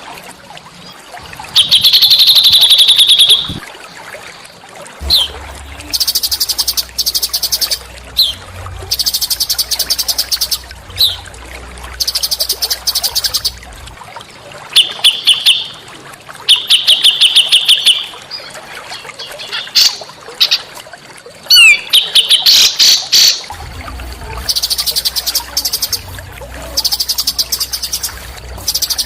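Small songbird singing in loud, high, rapid trills of one to two seconds each, repeated with short gaps and broken by brief sharp chirps and whistled notes.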